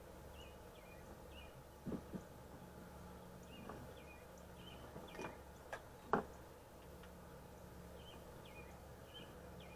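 Faint, repeated short bird chirps over a low steady hum, with a few light clicks and knocks from gear being handled on a table. The loudest knock comes about six seconds in.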